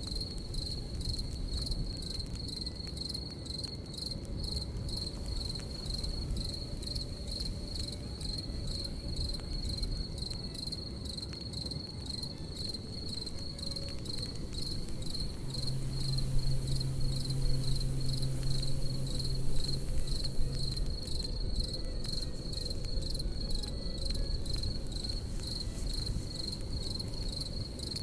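Crickets chirping in a steady, fast-pulsing high trill, over a low rumble. A low steady hum comes in for about five seconds in the middle.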